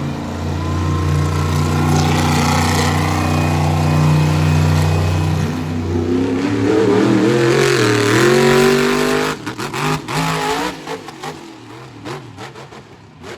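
Monster truck engine running steadily, then revving hard with the pitch rising and wavering for a few seconds. It cuts back sharply about nine seconds in, leaving quieter scattered crackles and clicks.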